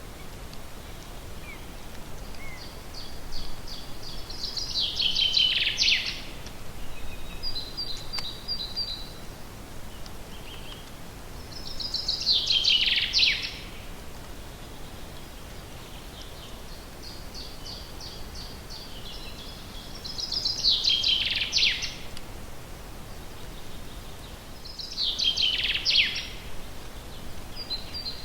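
A songbird singing the same loud song four times, each time a quick run of repeated notes ending in a falling flourish. Shorter high chirps from other birds come between the songs, over a steady background hiss.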